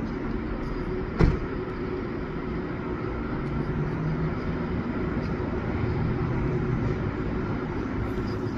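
Steady mechanical hum and rumble, with a single sharp knock about a second in.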